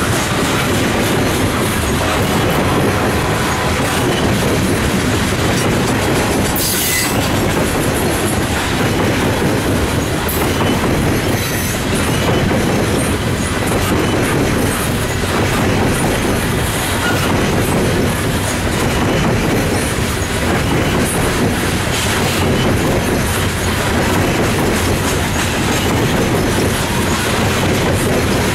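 Loaded coal hopper cars of a long freight train rolling past, a steady loud rumble of steel wheels on rail, with a few brief high wheel squeals along the way.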